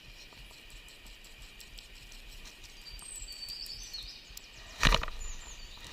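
Riverside ambience: a steady high insect drone, with a few short bird chirps about three to four seconds in. A sharp clatter near the end is the loudest sound.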